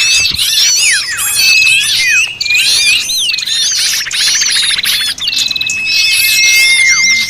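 A noisy chorus of many small birds calling at once: overlapping chirps and squawky calls, fast trills, and long steady whistled notes. It is a bird-lure recording of agitated, noisy birds, played to draw small birds in.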